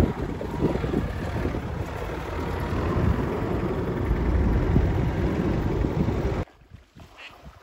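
Vehicle rumble with wind buffeting on the microphone while driving slowly along a bumpy grassy field track. It cuts off abruptly about six and a half seconds in, leaving quiet with a few faint high chirps.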